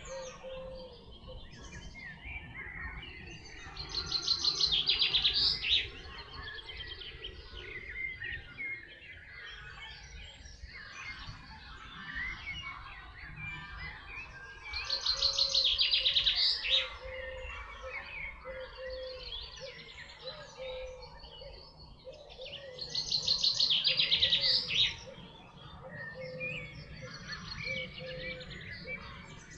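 Songbirds singing: one bird sings a loud, fast trilled phrase three times, about every ten seconds, each building up and ending abruptly, over softer chirping from other birds and a series of short low repeated calls.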